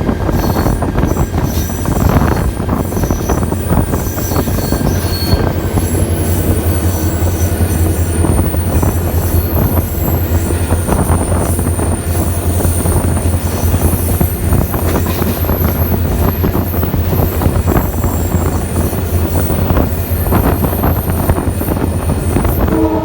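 Passenger train coaches rolling past on the track, a steady heavy rumble with thin high-pitched wheel squeal from about halfway through.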